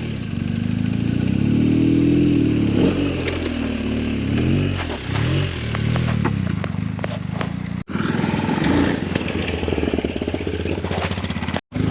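Adventure motorcycle engine revving up and down as it rides a rough trail, its pitch rising and falling several times. Scattered clicks and knocks sound over it.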